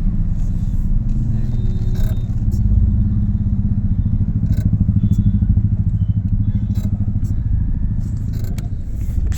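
Motor vehicle engine running with a steady, finely pulsing low rumble, with scattered clicks and rattles.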